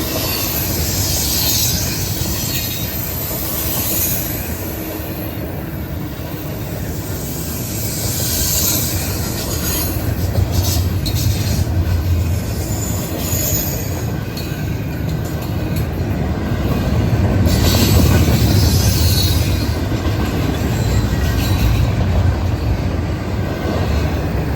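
Norfolk Southern freight train rolling past, steel wheels squealing shrilly on the rail over a steady low rumble. A run of sharp clicks comes about halfway through.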